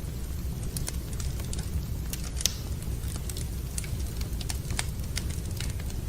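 Wood fire in a fireplace crackling: irregular sharp pops and snaps over a steady low rumble, with one louder pop about two and a half seconds in.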